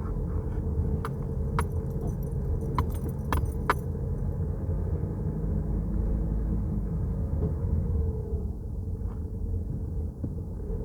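Peugeot Rifter driving, with a steady low road and engine rumble. Five sharp, irregular metallic clicks or jingles, like keys, come in the first four seconds.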